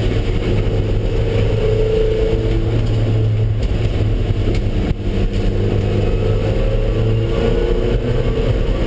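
Engine running hard under load at track speed, its note rising and falling a little with the throttle, over steady road and tyre noise.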